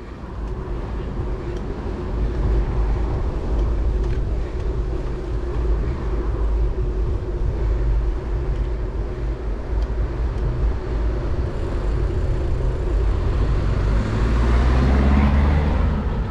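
Steady low wind rumble on the microphone and road traffic while cycling, with a motor vehicle passing and growing louder near the end.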